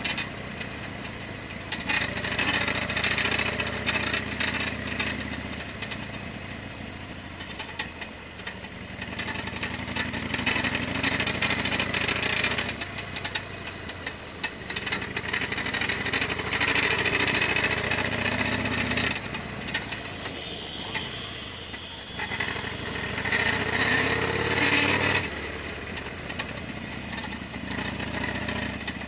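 Harley-Davidson Sportster XL1200R's air-cooled 1200 cc V-twin engine running under way, swelling louder four times and dropping back in between as the throttle is opened and eased.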